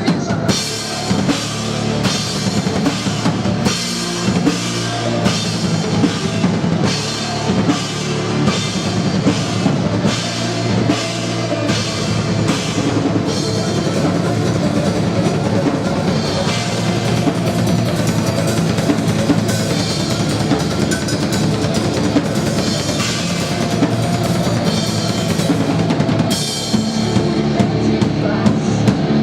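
Live rock band playing an instrumental stretch of a song, the drum kit keeping a steady beat of bass drum and snare, with cymbals more dense through the middle.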